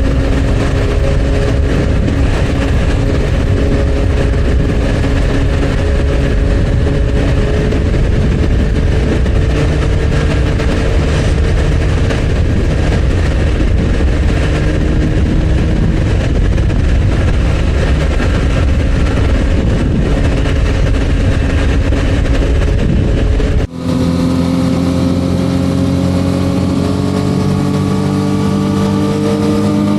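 Motorcycle engine of over 800cc running at highway cruising speed under a heavy rumble of wind. About three-quarters of the way in the wind rumble drops off suddenly, and the engine note comes through clearer and rises slowly.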